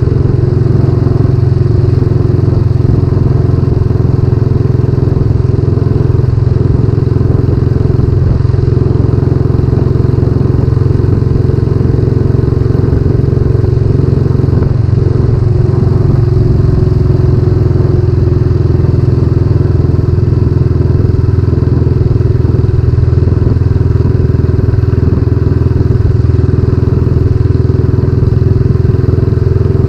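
Royal Enfield Classic 500's single-cylinder engine running steadily through a newly fitted aftermarket silencer while the bike is ridden, with a constant loud exhaust note throughout.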